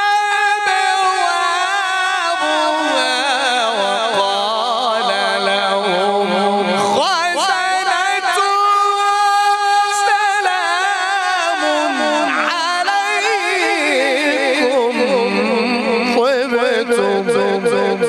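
Male voice reciting the Quran in an ornamented, melodic style: one long melismatic line with heavy vibrato. The pitch steps down about three seconds in, sweeps sharply upward around seven seconds, and climbs higher again in the second half.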